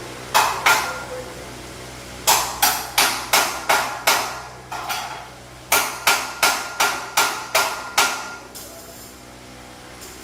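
A hammer striking steel in runs of sharp blows, about three a second, each leaving a short metallic ring.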